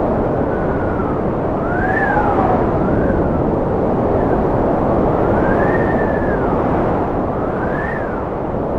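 Strong, steady cold wind with a whistling tone that rises and falls in pitch about five times.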